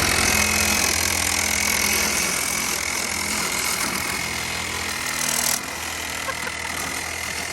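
Power saw running steadily as it cuts through a car's power steering line, its blade dull. A low engine idle hums underneath.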